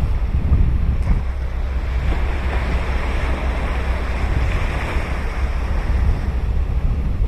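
Ocean surf breaking and washing up the beach. A wave rushes in louder about two seconds in and eases off near the end, over a steady low rumble of wind on the microphone.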